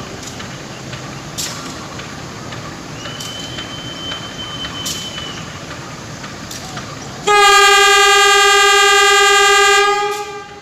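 Train horn sounding one loud, steady blast about seven seconds in that fades out near the end, over the steady noise of a train with a few clicks.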